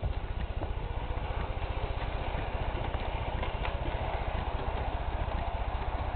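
Model train running on its track: a steady low rumble with occasional light clicks.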